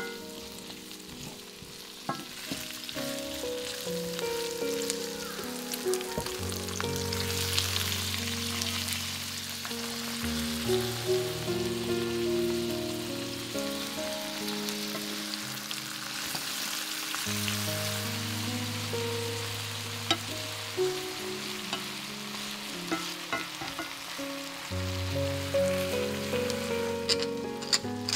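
Food sizzling as it fries in a pan, over background music with slow, held chords. A quick run of sharp clicks comes near the end.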